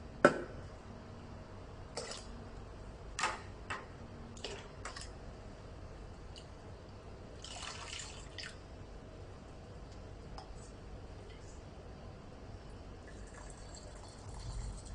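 A coffee press (French press) being handled after rinsing: a sharp click about a quarter second in, then scattered lighter clicks and knocks of its parts, with dripping water and a brief splash around the middle.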